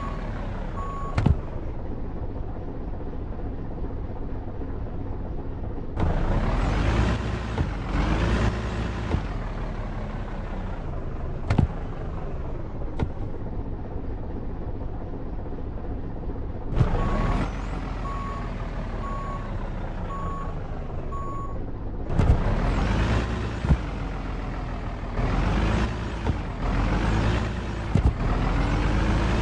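Truck engine running, its pitch rising and falling again and again as it revs and shifts, with a few sharp knocks. A steady repeated beep sounds briefly at the start and again for a few seconds past the middle.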